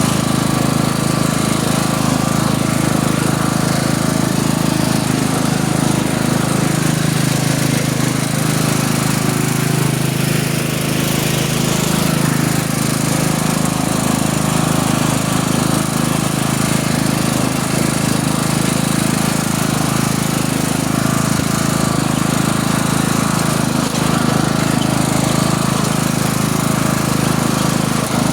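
Small vehicle engine running steadily while riding along, holding an even speed.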